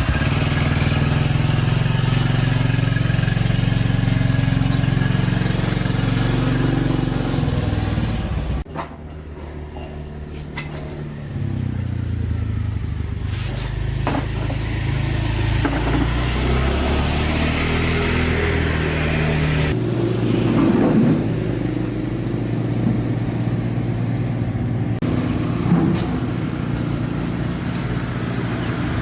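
Motor vehicle engine running steadily, its pitch shifting a few times, with abrupt changes about nine seconds in and again about twenty seconds in.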